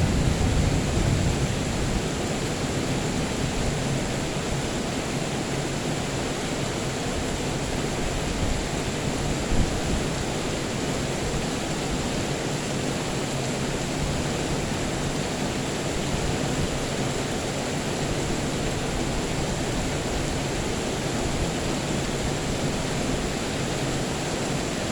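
Steady rain falling, an even hiss without a break, with a single sharp tap about ten seconds in.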